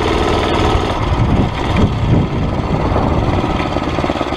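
Murray mini bike's single-cylinder Tecumseh engine running during a test ride, its engine speed wavering up and down around the middle as the throttle changes.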